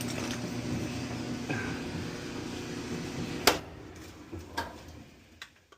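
Maytag dryer running on test after its no-heat repair, a steady motor hum. A sharp click comes about three and a half seconds in, and the hum dies away, with a few light knocks after it.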